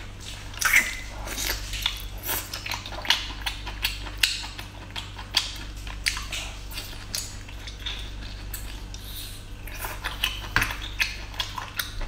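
A person biting and chewing mini octopus off a skewer up close: many short, irregular wet smacks and bites.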